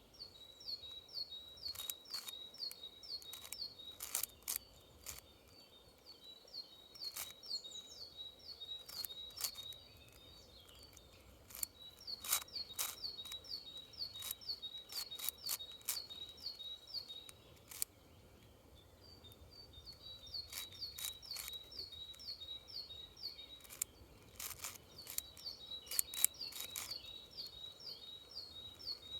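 Sharp plastic clicks of a 6x6 twisty-puzzle cube's layers being turned, in irregular clusters, over a bird calling long runs of evenly repeated high chirps, about three a second.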